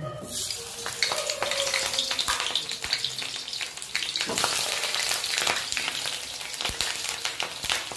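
Raw jackfruit pieces sizzling and crackling in hot oil in a kadhai as handfuls are dropped in to deep-fry. The sizzle starts sharply as the first pieces hit the oil and keeps going with a dense, spitting crackle.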